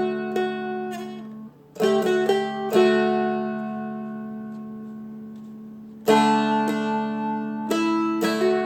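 Seagull Merlin, a four-string dulcimer-style instrument tuned to open D, being picked: melody notes over steadily ringing drone strings. About 3 s in a chord is left to ring and fade for about three seconds, then a strong strum about 6 s in starts the picking again.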